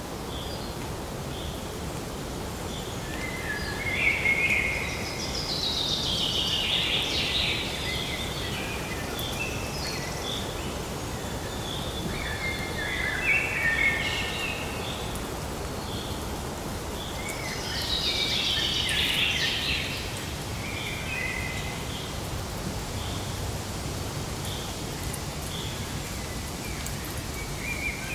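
Birds singing: several bursts of quick song, two of them sweeping downward, and between them a short high chirp repeated about once a second, over a steady background hiss.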